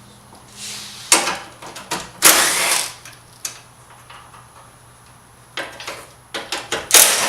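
Ratchet wrench clicking in several short spells, with clinks of metal, as the 10 mm bolts on the radiator support are loosened.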